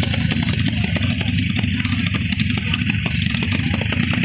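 Race-prepped old Honda motorcycle's single-cylinder four-stroke engine idling steadily at the start line, heard close up.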